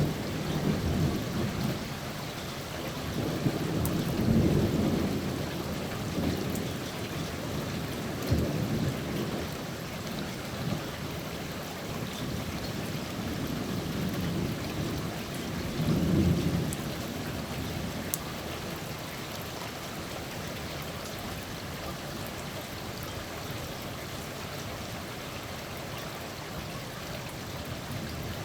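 Steady rainfall from a thunderstorm, with low rolls of thunder swelling up several times in the first half before the rain carries on alone.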